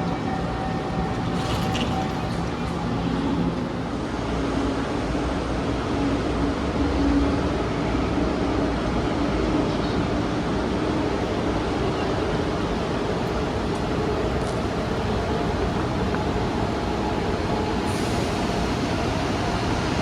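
Steady running noise of a KTX-Cheongryong high-speed train: an even rumble and rush, with a faint hum that rises a little in pitch a few seconds in and a few light clicks.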